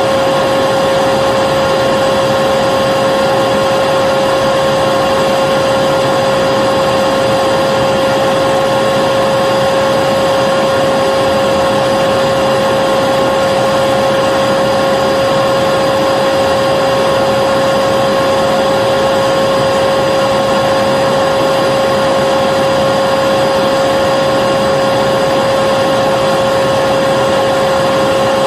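Vacuum cleaner running steadily: an unchanging rush of air under a constant mid-pitched motor whine.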